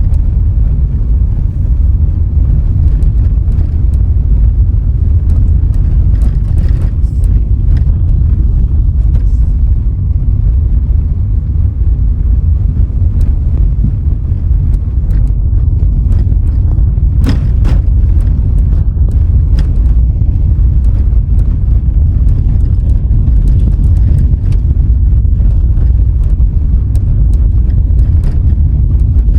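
Steady low rumble of a car driving along a road: tyre and engine noise, with a few faint clicks about halfway through.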